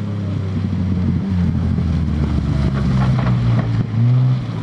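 Rally car engine running hard as the car approaches and passes, the engine note shifting in steps and growing louder to a peak about four seconds in before falling away.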